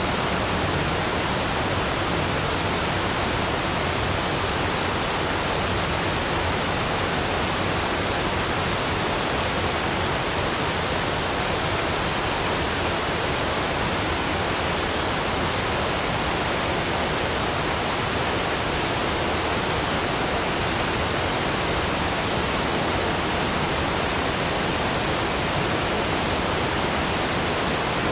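Waterfall: a steady, unchanging rush of falling water, even from deep to hiss-like high pitches, with no splashes or other events standing out.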